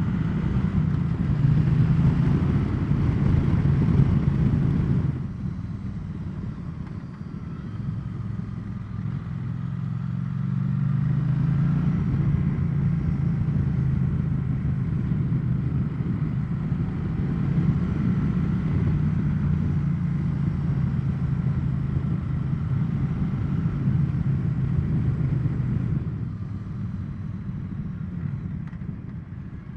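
Triumph Bonneville T100 parallel-twin motorcycle engine running on the road. It eases off about five seconds in, climbs in revs around ten seconds in and holds steady, then drops off again near the end.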